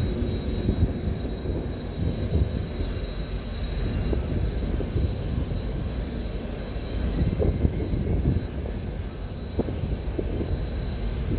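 Rumble of a Kawasaki T-4 jet trainer's turbofan engines heard from a distance across the airfield, low and uneven, with a thin steady high whine above it.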